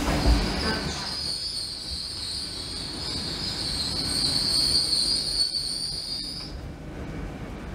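High-pitched squeal from a train at a station platform, one steady whistling tone held for about five seconds before it fades near the end, over a low rumble.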